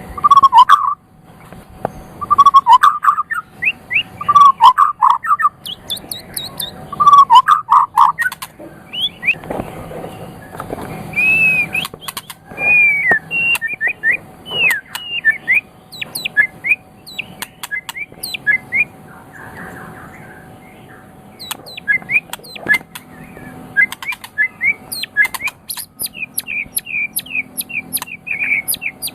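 White-rumped shama singing a long, varied song. It opens with four repeated low whistled phrases, then runs into rapid sharp chips and clicks mixed with higher whistled notes.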